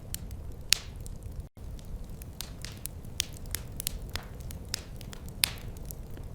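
A wood fire crackling, with irregular sharp pops and snaps over a steady low rumble of the flames. The loudest pops come just under a second in and again past five seconds. The sound cuts out for an instant about a second and a half in.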